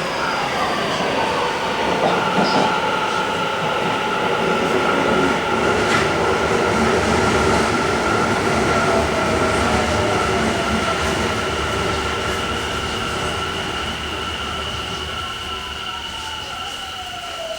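Tobu 50050 series subway train running in a tunnel, heard from inside the car: continuous wheel-and-rail rumble with steady high squealing tones, fading over the second half as the train slows, with the Hitachi IGBT-VVVF traction inverter's whine falling in pitch near the end.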